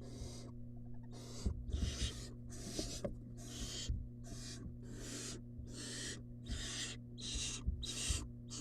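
Barn owl nestling giving its hissing food-begging call: a steady run of short hisses, about two a second, with a few soft thumps.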